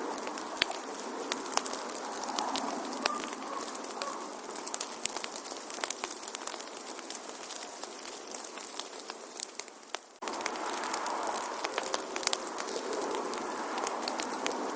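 Wood fire in a fireplace crackling, with frequent sharp pops and snaps over a steady hiss. About ten seconds in the sound briefly fades and then cuts straight back in.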